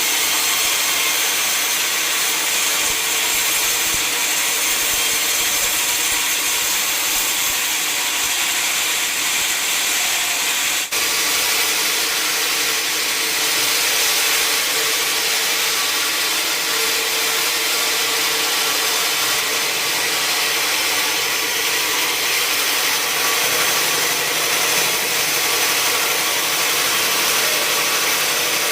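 Sawmill saw cutting steadily through a large log: a constant, loud, mostly high-pitched noise of the blade in the wood, with a brief break about eleven seconds in.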